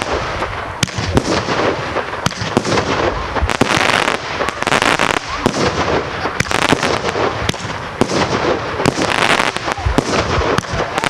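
Multi-shot consumer firework cake firing, a dense run of sharp pops and crackles over a steady hiss, with no pause.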